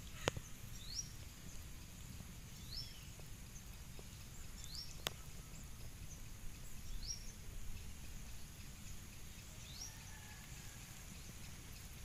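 A bird repeating a short, high, rising chirp five times, about every two seconds, faint over a low steady rumble of outdoor background noise. A couple of sharp clicks, the loudest about five seconds in.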